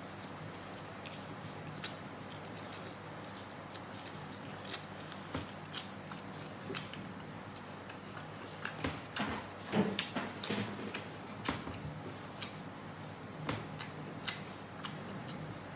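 A person eating instant noodles and a fried snack: chewing with frequent small wet mouth clicks, busiest about halfway through.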